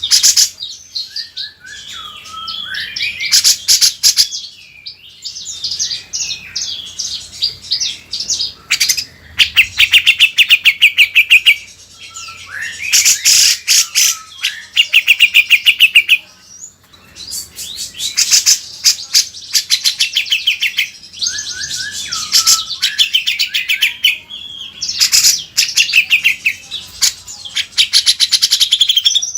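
Cucak jenggot (grey-cheeked bulbul) singing loudly in full voice: phrases a few seconds long of fast chattering trills and rattles, mixed with short whistled notes, repeated with brief pauses between them.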